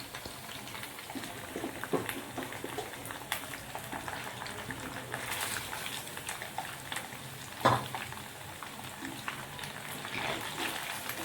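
Egg-white and corn-flour battered chicken strips deep-frying in hot oil: a steady crackle with many small pops. A utensil knocks sharply against the pan about two seconds in, and louder just before eight seconds.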